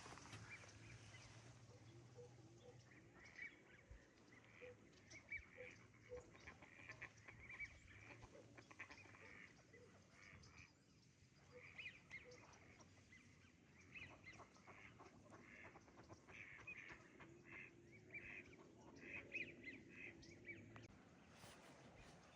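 Faint chorus of birds calling: many short calls, one after another and overlapping, throughout.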